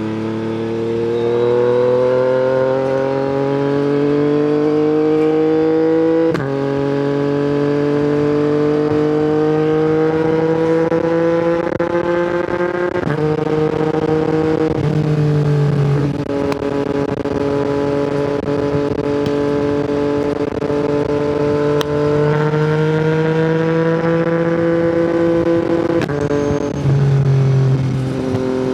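Yamaha MT-09's three-cylinder engine running through an Akrapovic exhaust as the bike pulls through the gears. The engine note climbs steadily and drops at each upshift, about six, thirteen and twenty-six seconds in, with a steadier stretch in between.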